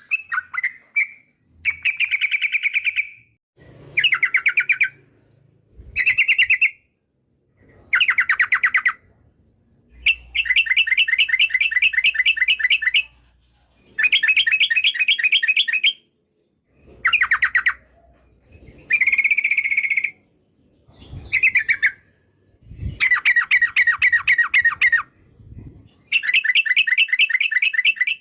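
Yellow-vented bulbul (trucukan) singing: about ten bursts of rapid, bubbly chattering notes, each a second or two long, with short pauses between them.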